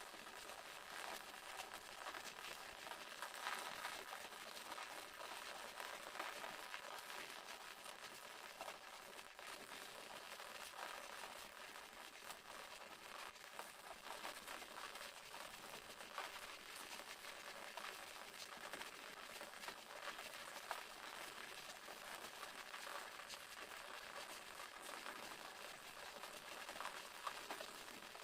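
Small waterfall: falling water splashing with a steady, faint hiss full of fine crackles.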